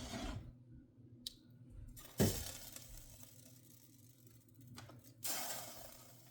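Kitchen handling noises: a light click, a louder knock about two seconds in, and a short scrape near the end, as utensils and cookware are handled.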